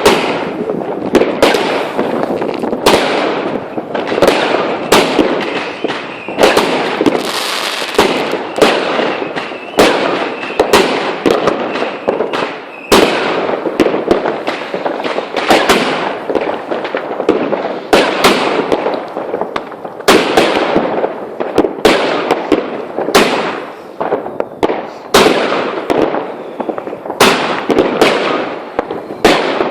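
Fireworks going off: sharp bangs about once or twice a second over continuous crackling, with a faint high whistle for several seconds in the middle.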